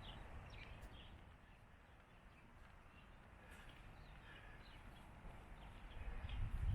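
Faint outdoor ambience: a few short, scattered bird chirps over a low rumble that dies down and then swells again near the end.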